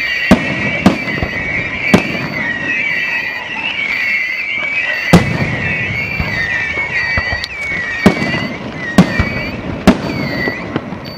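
Aerial fireworks show: about seven sharp, loud bangs of bursting shells, over a continuous tangle of high, wavering whistles from whistling fireworks.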